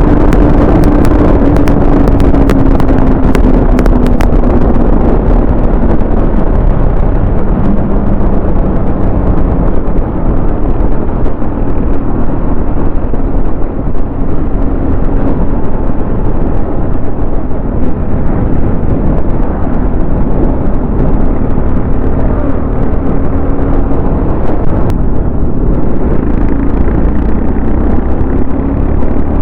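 TVS Apache RR310 motorcycle being ridden at speed: its single-cylinder engine runs steadily under heavy wind noise on the microphone, the engine note dropping a couple of seconds in.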